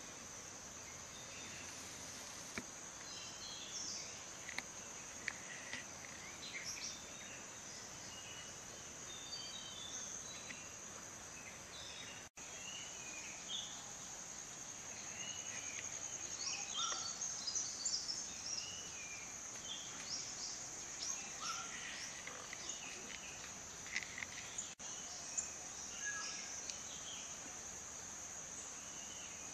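Steady high-pitched insect buzz, with many short bird chirps scattered over it, busiest past the middle. The sound cuts out for an instant twice.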